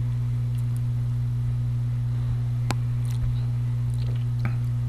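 Steady low electrical hum, one even tone with a fainter higher overtone, with a faint click about two and a half seconds in.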